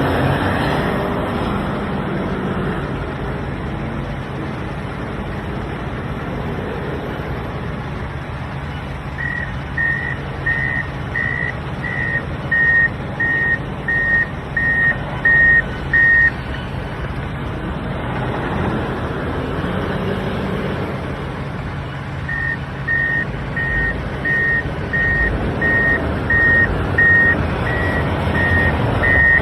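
Heavy diesel engine of a Komatsu WA470 wheel loader running under load, revving up a couple of times. A reversing alarm beeps in two runs, a little under two beeps a second, as a machine backs up.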